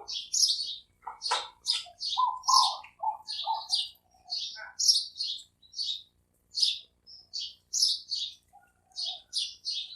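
A small bird chirping over and over, short high chirps about two a second. About two seconds in, a short run of lower cooing notes from a spotted dove joins in.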